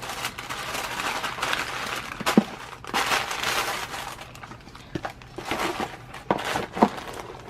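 Packaging crinkling and rustling with sharp crackles as it is handled and folded up by hand.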